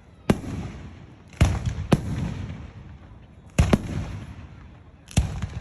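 Fireworks bursting in the sky: about six sharp bangs, two of them in quick pairs, each followed by a low rolling rumble that fades.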